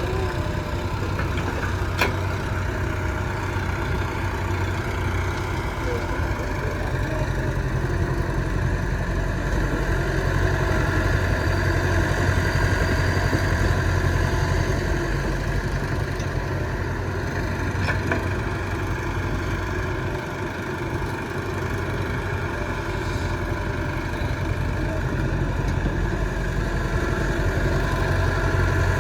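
Diesel engines of tractors and a JCB running steadily at a low, even note, with a sharp click about two seconds in.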